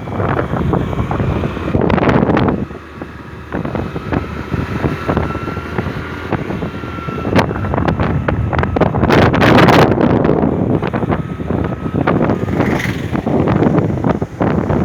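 Wind buffeting the microphone while riding a scooter, loud and gusty, with scooter engine and road noise underneath.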